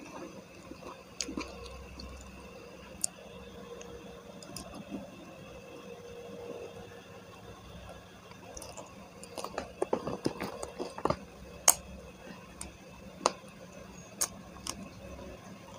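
A person eating with her hand, close to the microphone: wet chewing and lip smacks with sharp mouth clicks. There is a quick flurry of smacks about ten seconds in and single crisp clicks near the end as she bites into raw leunca berries.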